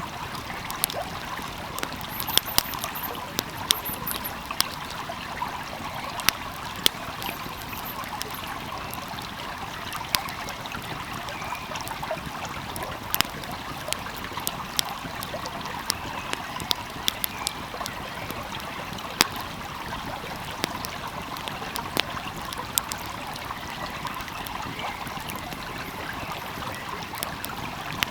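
Steady rushing of a flowing stream, with the sharp, irregular pops and snaps of a crackling wood fire scattered throughout.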